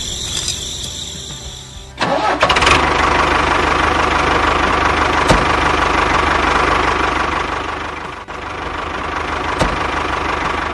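A tractor engine starts suddenly about two seconds in and runs steadily after that, dipping briefly near the end.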